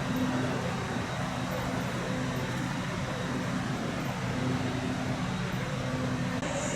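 Steady low hum and rumble of a vehicle or traffic, with no sudden events.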